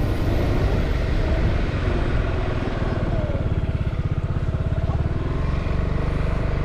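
Motorcycle engine running steadily as it is ridden, with a fast even pulse from its firing.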